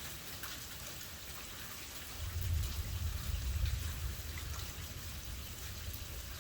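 Steady rain falling, with scattered drop ticks, during a thunderstorm. A low rumble of thunder swells about two seconds in and dies away over the next two seconds.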